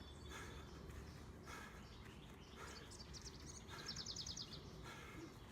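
A small bird gives a rapid chirping trill of quick high notes about four seconds in, over a faint outdoor background. Soft sounds recur about once a second.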